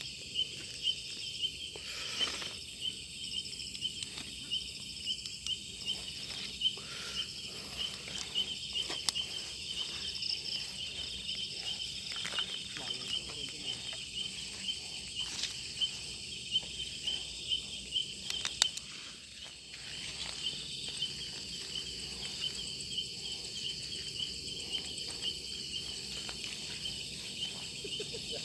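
Night chorus of crickets trilling steadily in a rapid, even pulse, with scattered short rustles and knocks close by.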